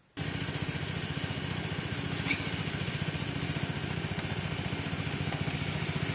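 A small engine running steadily with a rapid, even beat. It starts abruptly just after the beginning and cuts off at the end.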